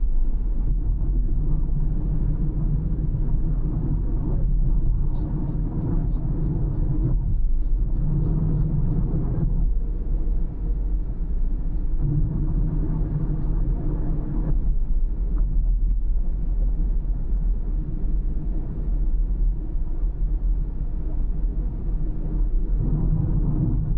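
A moving car's steady low road rumble of tyres and engine, with the engine's hum growing stronger and easing off several times as the throttle changes.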